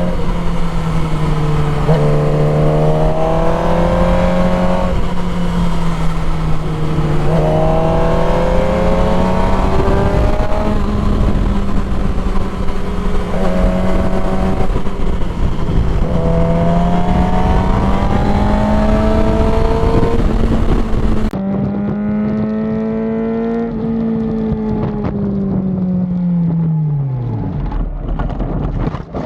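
Motorcycle engine accelerating through the gears with wind rushing past, the pitch climbing and dropping back at each shift. Past the middle the wind noise stops and the engine slows, its pitch falling steadily toward idle near the end.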